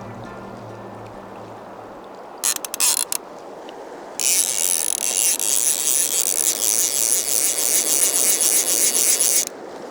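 Fly reel's click-and-pawl drag buzzing as line is pulled off it, the sign of a hooked trout running: a few short clicks about two and a half seconds in, then a loud run of about five seconds that stops suddenly.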